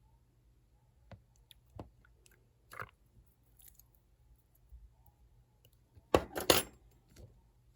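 Clear slime being handled by hand, giving off sticky clicks and pops: a few single clicks, then a louder crackly cluster about six seconds in.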